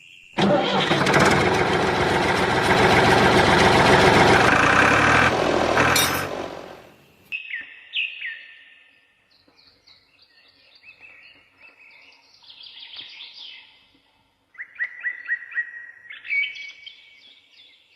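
A loud sound filling the whole range for the first seven seconds or so, fading out, followed by small birds chirping in quick repeated calls.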